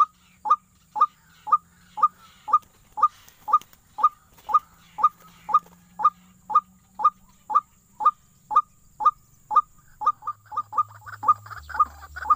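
White-breasted waterhen call: one short note repeated steadily about twice a second. About ten seconds in the notes speed up to about three a second, with busier calling behind them.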